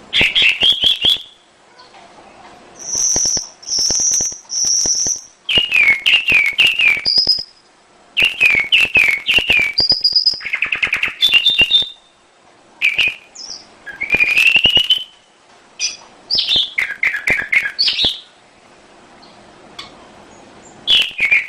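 Domestic canary singing in phrases of a second or two with short pauses between: fast trills, quick repeated chirps and a few high, clear whistled notes.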